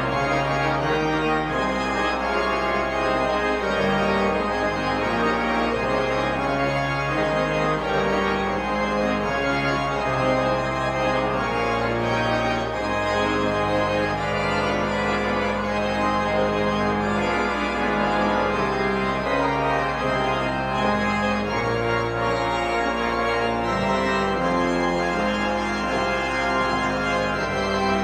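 Church organ playing a slow, sustained piece in several parts, chords and lines of held notes changing about once a second.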